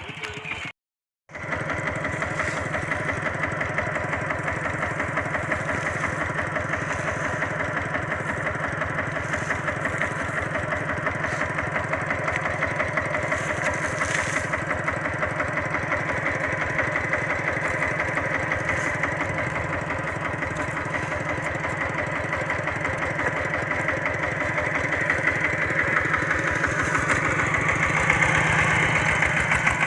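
Single-cylinder diesel engine of a walk-behind tractor running steadily with a fast, even chugging. It grows a little louder near the end, and there is a split-second gap of silence just after the start.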